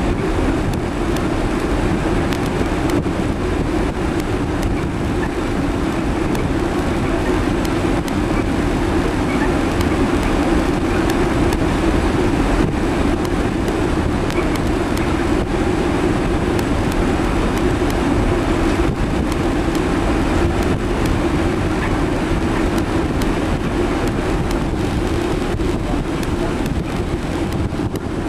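Steady rumbling noise of wind and machinery aboard a moving warship, with a constant low drone underneath.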